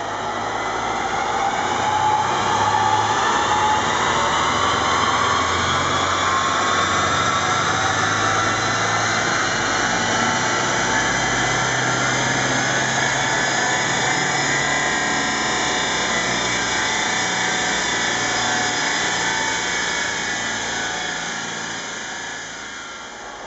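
BMW 118d's four-cylinder turbodiesel pulling under full load on a rolling-road dyno, its pitch rising steadily for about twenty seconds as the revs climb, with a high whine over the engine note. The sound eases off near the end as the run finishes.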